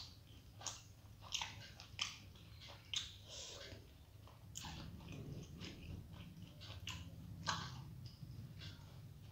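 Close-up mouth sounds of someone chewing soft steamed vegetable momos (dumplings): wet smacks and clicks of the lips and tongue, roughly one every half second to second, over a faint steady low hum.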